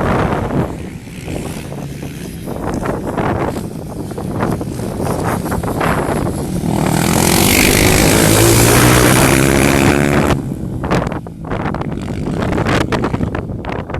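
Off-road motorcycle engine running and revving, loudest a little past halfway with a rising engine note, amid wind noise on the microphone.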